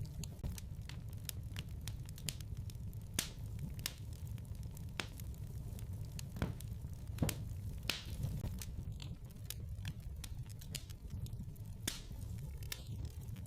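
Wood fire crackling in a fireplace: irregular sharp pops and snaps, roughly one a second, over a steady low rumble of the flames.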